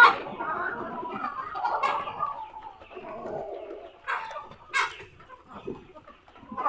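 A flock of chickens clucking, with irregular calls throughout and two short, sharper calls a little past the middle.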